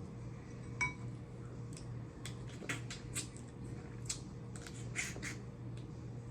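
Snow crab leg shells being cracked and snapped apart by hand: a run of sharp clicks and cracks in the middle of the stretch, with one short ringing clink about a second in. A steady low hum runs underneath.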